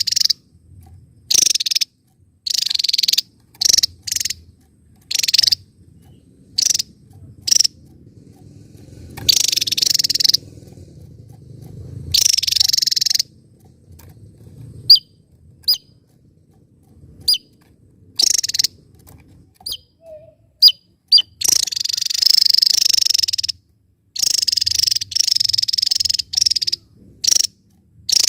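Javan tesia singing: short, dense, high-pitched bursts of song repeated with brief pauses. Single sharp chip notes fall between them around the middle, and longer, near-continuous bursts come near the end.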